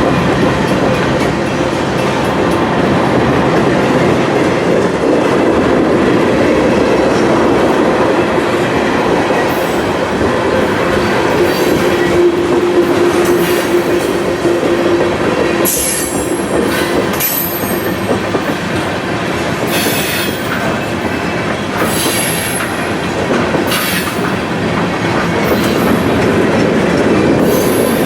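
A train rolling past with a steady, loud noise of cars on rails, and brief high-pitched wheel squeals coming and going through the second half.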